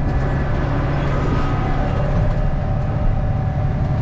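Farm tractor's diesel engine running steadily, a continuous low drone with a steady hum.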